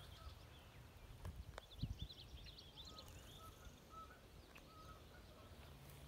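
Faint outdoor ambience of small birds calling: a quick run of high chirps in the first half, and short, evenly pitched notes repeating every half second or so, over a low rumble of wind, with a couple of soft knocks about two seconds in.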